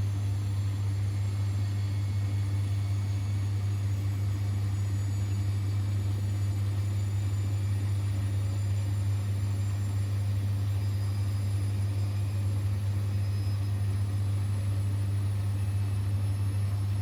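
Siemens Extraklasse XLS 140 A washing machine running mid-cycle with a steady, unchanging low hum.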